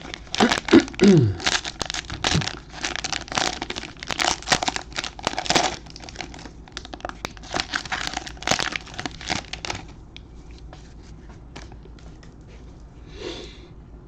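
Plastic wrapper of a trading-card pack being torn open and crinkled by hand, a dense crackling for about ten seconds, then only a few faint ticks.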